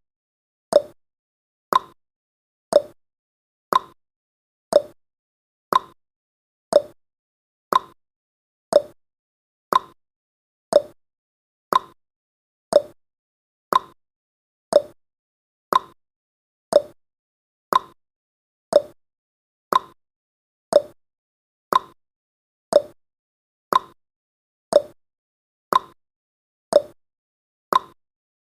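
Countdown timer's tick sound effect: a short, sharp tick once every second, evenly spaced.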